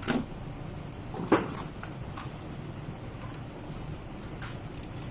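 Two short knocks, the second and louder about a second in, then a few light clicks, over a steady low hum.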